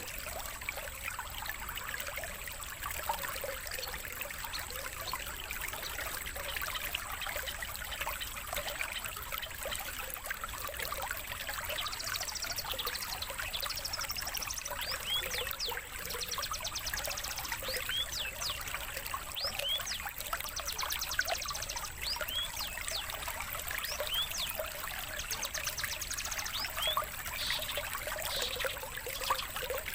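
Water trickling steadily, with small songbirds chirping and giving short whistles and fast trills over it, more often from about halfway through.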